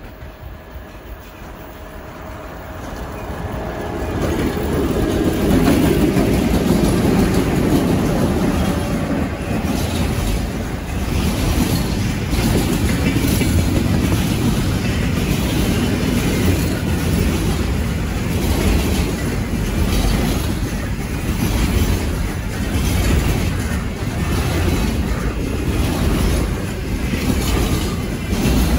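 A train coming closer over the first few seconds and then passing close by: a steady heavy rumble of rolling wagons with repeated clicking of wheels over rail joints.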